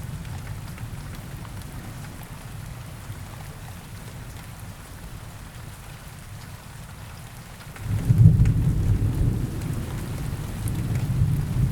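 Steady rain with rolling thunder: a low rumble dies down over the first seconds, then a new, louder roll of thunder breaks in about eight seconds in and keeps rumbling.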